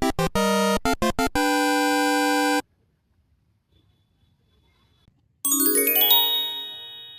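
Short synthesized jingle: a quick stuttering run of electronic notes ending in a held note. After a pause, a bright shimmering chord of many notes rings out and fades slowly.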